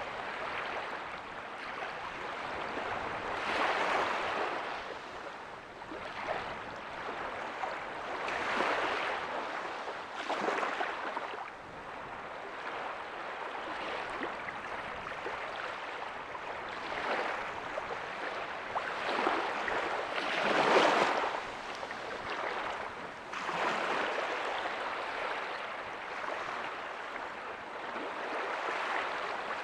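Small ocean waves breaking softly on a beach, a continuous wash of surf that swells every few seconds, the loudest break about two-thirds of the way through.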